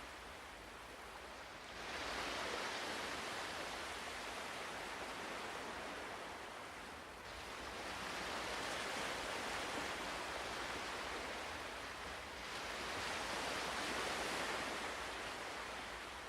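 Ocean waves washing onto a shore: three soft surges of surf about five seconds apart, with a steady hiss between them.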